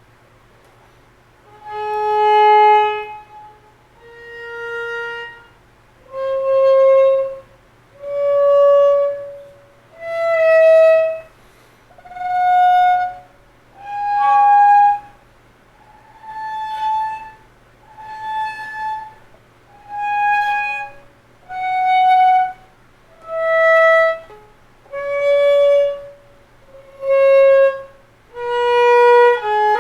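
Solo violin playing a slow scale, one long bowed note at a time with short breaks between, climbing about an octave and coming back down.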